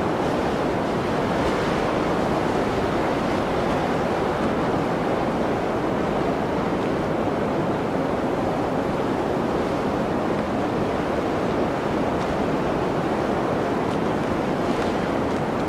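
Blizzard wind, a steady dense rush of noise with no gusts or lulls.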